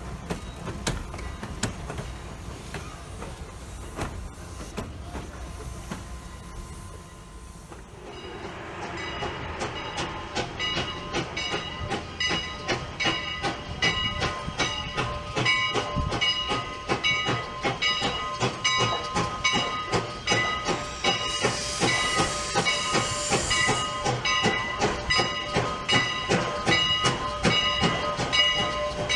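Steam train passing at the track: from about eight seconds in, its wheels click rapidly over the rail joints with a steady high-pitched ringing from the wheels. A burst of steam hiss comes about two-thirds of the way through.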